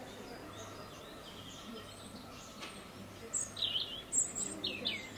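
Small birds chirping: a run of short, high chirps begins about three seconds in, over a steady low background hum.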